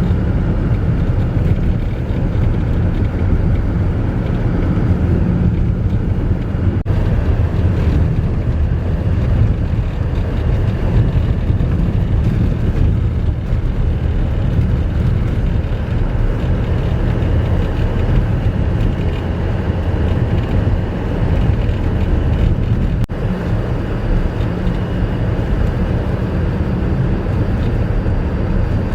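Steady low rumble of a motor vehicle driving, engine and road noise without a break.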